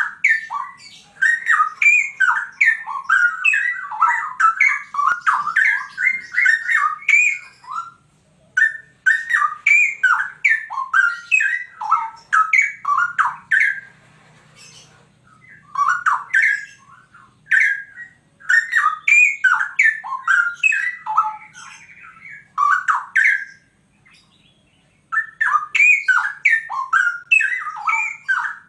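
Straw-headed bulbul (cucak rowo) singing loudly, with rapid bubbling, warbling phrases in bouts several seconds long and short pauses between them.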